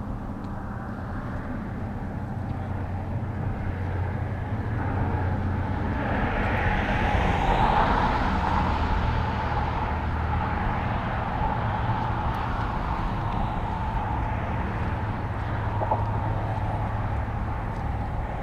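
Outdoor recording with wind buffeting the microphone over a steady low rumble. A rushing sound swells to its loudest about eight seconds in and then slowly eases off.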